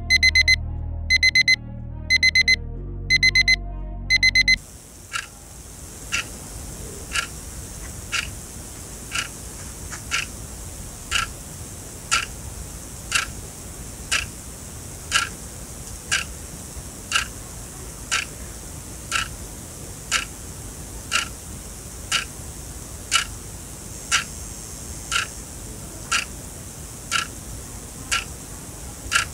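Sonam quartz alarm clock's electronic beeper sounding in short bursts of rapid, shrill beeps, cut off about four and a half seconds in. After that the clock's quartz movement ticks steadily, about once a second.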